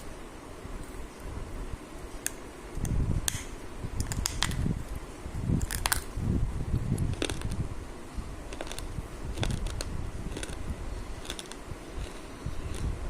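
A person eating close to the microphone: irregular chewing with scattered sharp crunches and clicks.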